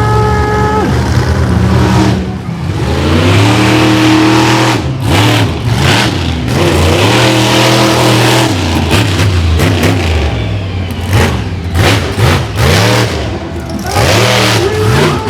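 Monster truck engine revving hard, its pitch climbing and falling again and again as the throttle is worked, with a few sharp bangs in between.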